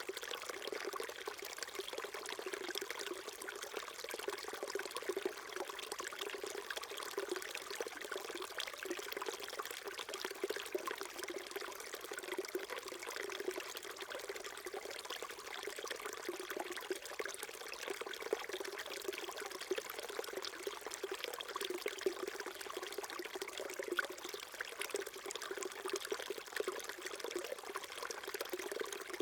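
Small stream flowing steadily over rocks, a continuous babbling trickle with light splashes.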